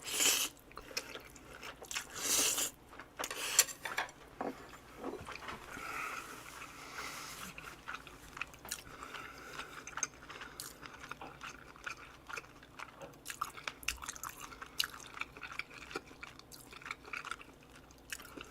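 Close-miked eating of spicy mixed noodles (bibim-guksu): a few loud slurps in the first four seconds, then steady wet chewing with many small clicks.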